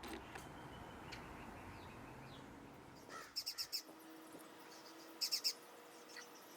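Wild birds at a backyard feeder calling over a faint steady background hiss: two quick runs of high, sharp chirps, about five notes each, around a third and four-fifths of the way through.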